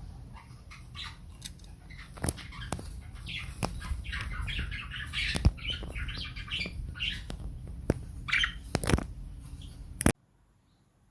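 Pet birds fluttering and moving about, with sharp clicks, scratching and short chirps. The sound stops abruptly about ten seconds in.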